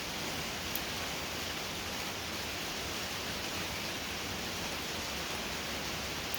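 Steady hiss of heavy rain falling outside the workshop, even and unbroken, with one faint click about a second in.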